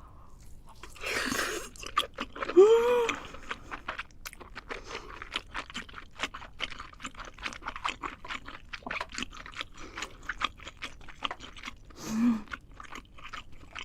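Close-miked chewing with many small crunching clicks as a person eats spicy Korean food. A breathy exhale about a second in, a short rising-and-falling vocal sound of enjoyment around three seconds, and a brief low hum near the end.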